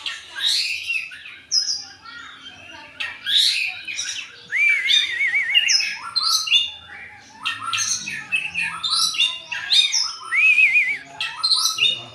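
Oriental magpie-robin (kacer) singing a continuous, varied song of sharp chirps, sweeping whistles and quick wavering trills, with a wobbling whistled phrase coming back a few times.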